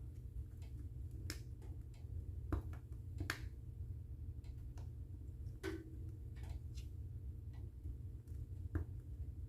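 Wood fire burning in a fireplace, crackling with irregular sharp pops over a steady low rumble; the strongest pops come about a second and a half, three and a half and six seconds in.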